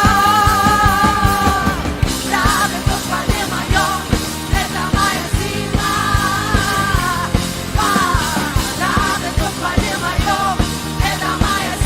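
Worship band playing a rock-style instrumental passage of a song, with steady drums under a held, wavering lead melody line.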